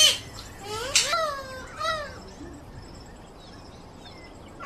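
Parrot calling: three short calls about a second apart, each rising then falling in pitch, followed by a quieter stretch.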